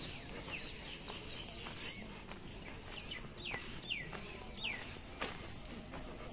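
Birds calling in short downward-sliding chirps, four or five of them from about three seconds in, over faint background noise, with one sharp click just after five seconds.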